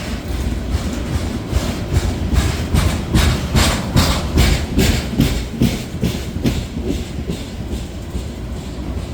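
Freight cars of a slow-moving grain train rolling past, their wheels clicking over rail joints in a steady rhythm of about two to three clicks a second over a low rumble. The clicks grow loudest in the middle and fade toward the end.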